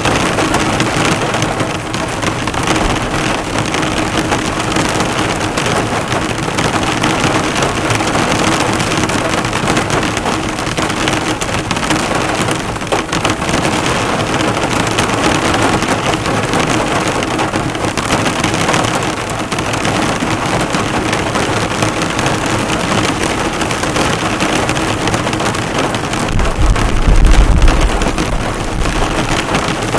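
Heavy rain falling hard on a car, drops bouncing off the bonnet and body in a dense, steady patter. A brief low rumble swells and fades about 27 seconds in.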